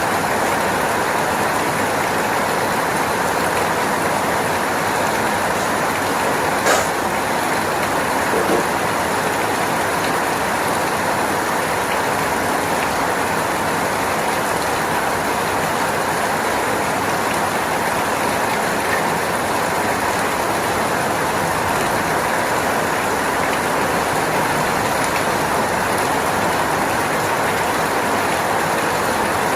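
Steady rain falling, an even hiss with no let-up, broken once by a sharp click about seven seconds in.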